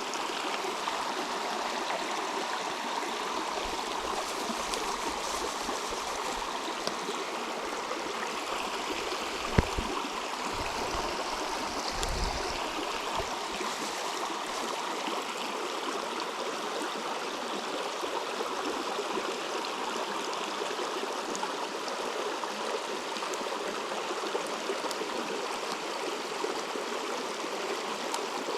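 River water flowing steadily, with one sharp knock just before ten seconds in.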